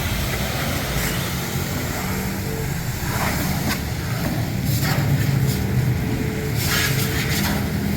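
A machine hums steadily under a constant hiss, with several short bursts of hiss from a few seconds in.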